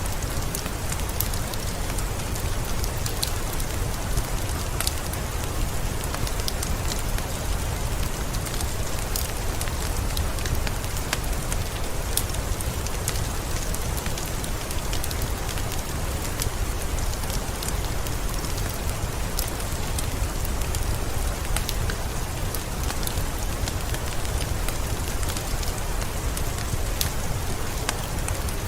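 Heavy rain falling steadily, with many individual drops ticking sharply above the even hiss and a steady low rumble underneath.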